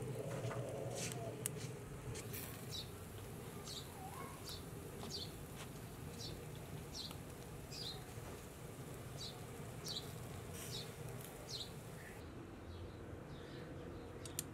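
A bird calling a long series of short, downward-sliding chirps, evenly repeated about every half second to second, starting a couple of seconds in and stopping near the end, over a steady low background.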